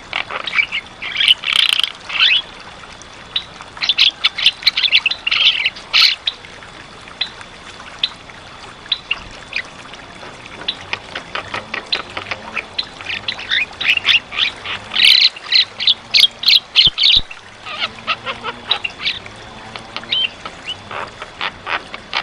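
Javan myna (jalak kebo) calling in bursts of rapid, harsh clicking and chattering notes, with short pauses between the bursts.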